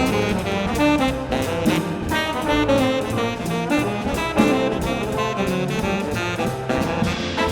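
Live jazz quintet playing an up-tempo tune: saxophone and trombone lines over piano, bass and a drum kit keeping a steady beat.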